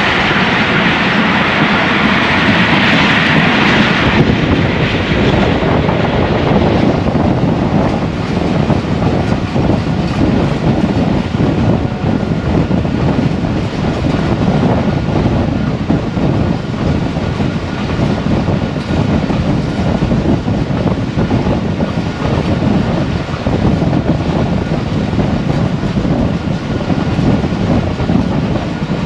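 Passenger train running at speed: a steady rumble of wheels on track with rushing air, brighter and hissier for the first few seconds before settling into an even rumble.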